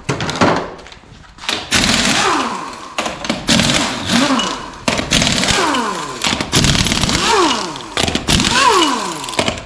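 Pneumatic impact wrench removing truck lug nuts in about five bursts of rapid hammering, its pitch falling away in each burst as the nut spins free.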